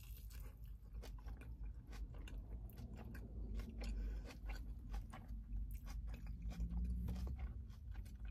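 A person biting into and chewing a soft-shell crab spider hand roll wrapped in nori: crunchy chewing with many small, sharp crunches throughout.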